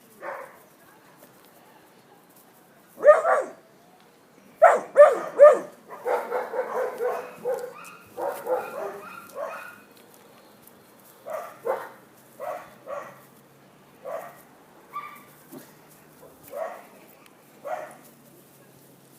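Puppy barking and yipping in bursts: one loud bark about three seconds in, a quick run of barks and yips from about five to nine seconds, then single barks about once a second.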